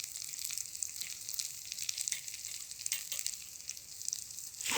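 Sausages sizzling on a grill over a campfire, a steady high hiss with scattered small pops and crackles.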